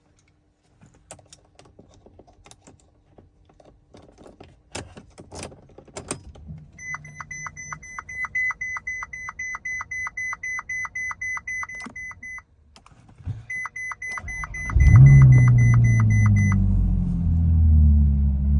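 Ferrari California's V8 being cold-started: first clicks and knocks, then the car's rapid warning chime beeping about four to five times a second, then a pause and more beeps. About 14 seconds in the engine catches with a loud rev flare and settles into a fast cold idle, its pitch slowly falling.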